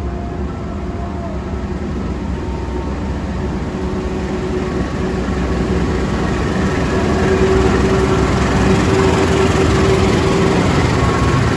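A train approaching, its rumble growing steadily louder, with a steady hum strengthening over it in the second half.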